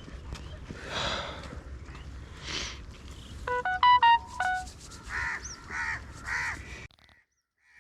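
Crows cawing, three harsh calls about half a second apart in the second half, with a short, loud electronic melody of stepped beeps a little before them. The sound cuts out abruptly about a second before the end.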